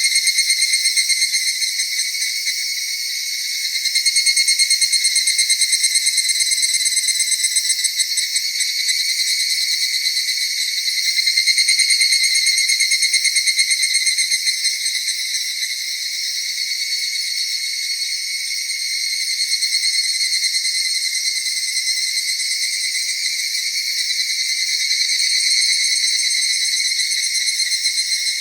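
Chorus of autumn night insects trilling continuously in several overlapping high pitches, with a fine rapid pulse. It swells louder about four seconds in and again around eleven to fourteen seconds.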